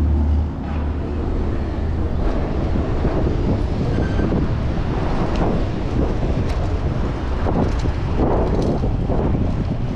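Wind buffeting the microphone of a camera riding along on a moving bicycle: a steady, rumbling rush with road noise underneath.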